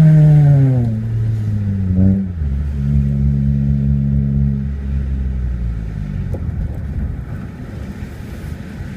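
2004 Honda Civic's four-cylinder engine, breathing through an aftermarket cat-back exhaust and cold air intake, winding down from high revs. It gives a quick rev blip about two seconds in, then holds a steady lower note before fading near the end.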